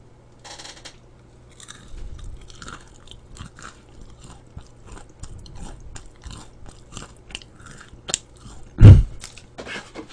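Close-miked crunching and chewing of crisp deep-fried Korean twigim (battered fritters): a steady run of sharp, irregular crunches. One loud low thump about nine seconds in.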